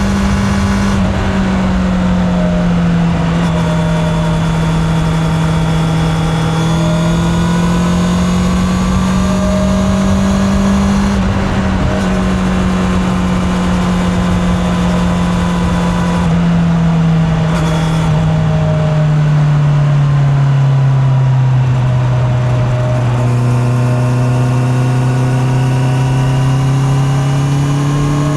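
Honda CB650R's inline-four engine running on the move, recorded from the rider's back pocket. The pitch holds fairly steady with gentle dips and rises as the throttle changes, sags lower about two-thirds of the way in, then climbs again toward the end.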